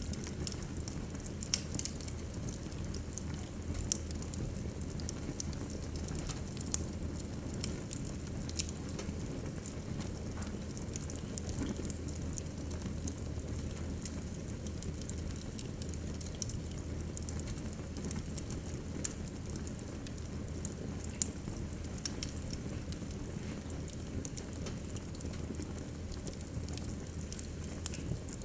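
Wood fire burning in a fireplace: irregular sharp crackles and pops over a steady low noise of the flames.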